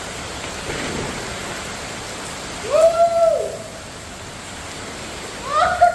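Steady rain falling as an even hiss. About three seconds in a voice gives a short hoot-like call that rises and falls, and another begins near the end.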